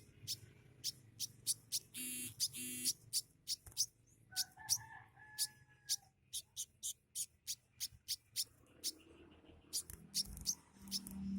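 A caged sogok ontong songbird singing a long run of short, sharp, high chirps, about two or three a second, with two brief buzzy notes about two seconds in.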